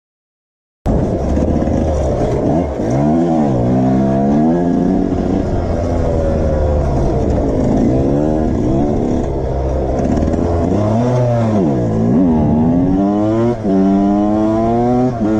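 A vehicle engine, most likely a motorcycle's, starts abruptly about a second in and revs up and down repeatedly. Near the end it accelerates through the gears, its pitch climbing and dropping at each shift.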